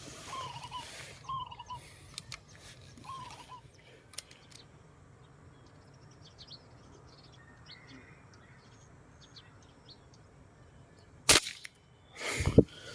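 Small birds chirping and calling, then a single sharp crack of a PCP air rifle shot about eleven seconds in, with a second, longer noise about a second after it.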